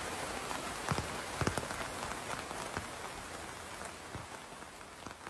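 Steady rain falling, with individual drops ticking sharply close by, a few to the second. The rain fades out gradually across these seconds.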